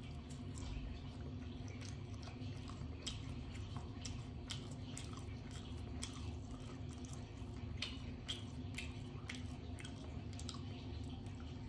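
Close mouth sounds of a person chewing and biting leftover chicken off the bone: wet smacks and many small sharp clicks, over a steady low hum.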